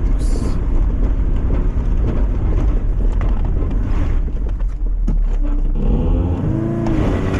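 Lifted Mazda MX-5's four-cylinder engine pulling under load with a heavy low rumble; about six seconds in the revs rise and hold as the car climbs a trial section.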